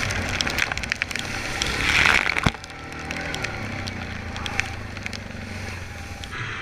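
Motorcycle riding, with the engine rumbling steadily under wind and scattered crackling clicks. A louder surge of noise about two seconds in ends in one sharp crack.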